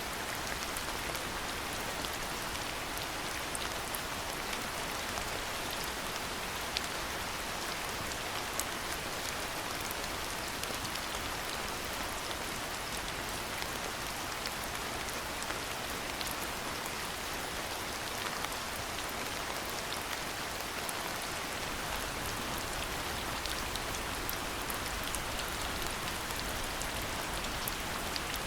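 Steady rain falling, a dense even hiss with many small sharp drop ticks scattered through it.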